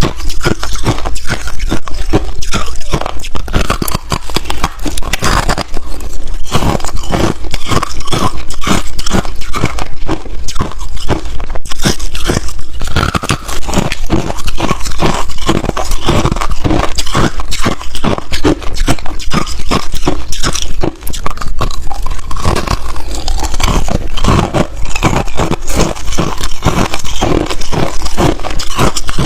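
Ice being bitten and chewed up close to the microphone: a loud, continuous run of rapid crunches, several a second, with no pause.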